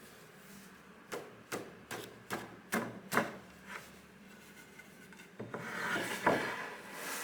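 A hand tool rubbing and scraping across wood: a series of short, quick strokes, then a longer, louder rasping pass near the end.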